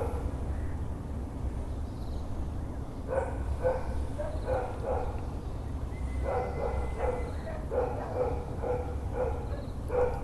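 A dog barking in series, short evenly spaced barks at about two a second, in two runs with a pause between them, over a steady low background hum.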